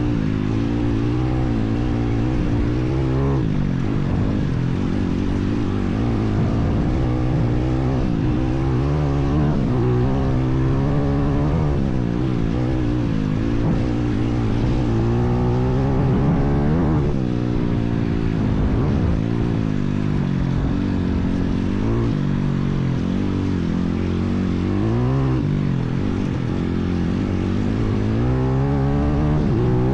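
IMR 160cc pit bike's single-cylinder four-stroke engine running, its pitch rising and falling again and again as the throttle is opened and closed.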